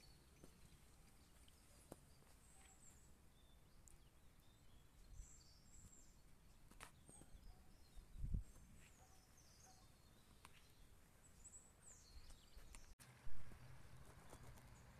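Faint outdoor ambience with scattered short, high bird chirps. A low thump comes about 8 s in, and after a sudden break near 13 s there is a click and then a steady low hum.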